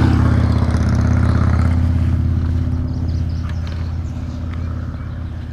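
Car engine running with a steady low hum that slowly fades.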